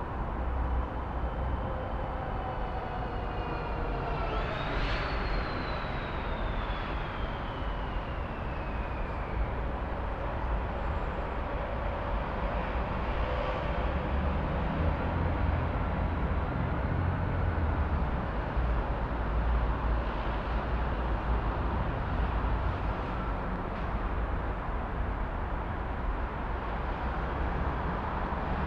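City traffic ambience: a steady rumble of traffic, with one vehicle passing about five seconds in, its whine rising and then falling in pitch as it goes by.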